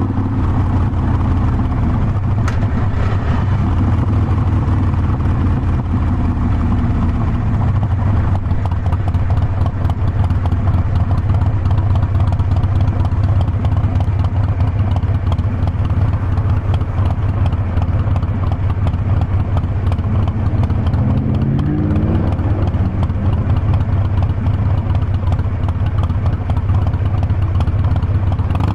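Harley-Davidson Forty-Eight Sportster's air-cooled V-twin engine running on the move, its note climbing a couple of seconds in, settling back, then climbing again about three-quarters of the way through.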